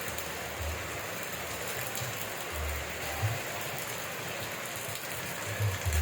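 Steady rain falling, an even hiss, with a few brief low thumps; the loudest come about three seconds in and near the end.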